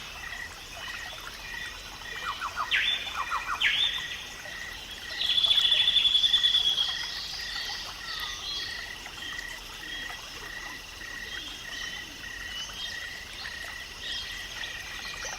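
Wildlife calls: a short call repeated about twice a second throughout, two quick series of falling chirps around three and four seconds in, and a loud trill lasting about two seconds from around five seconds in.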